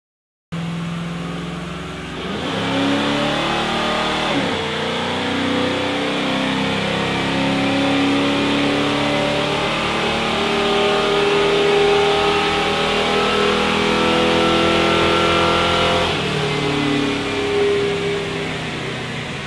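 1974 Pontiac Firebird engine run up on a chassis dynamometer. It is held at wide-open throttle with a misfire under full throttle, its pitch climbing slowly for about fourteen seconds, then backs off and drops to a lower speed near the end.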